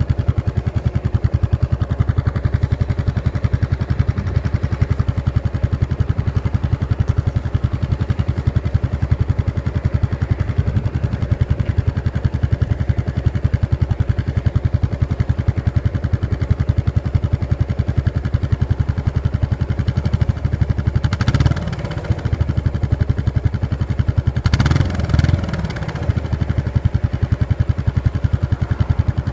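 Yamaha SR400 FI single-cylinder engine exhaling through an aftermarket Planas muffler while riding, a steady train of exhaust pulses. About twenty-one and again about twenty-five seconds in, the note swells briefly with the pitch rising and falling as the throttle changes.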